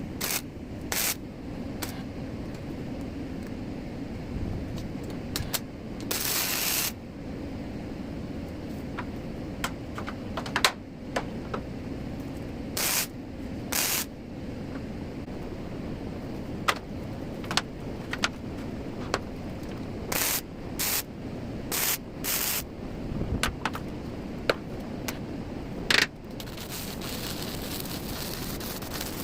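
Welder making a series of short tack welds on a steel sheet being fitted around a tractor rim: repeated bursts of hiss and crackle, each from a fraction of a second to about a second long, over a steady low hum. The longest burst comes about six seconds in, and a longer stretch of hiss comes near the end.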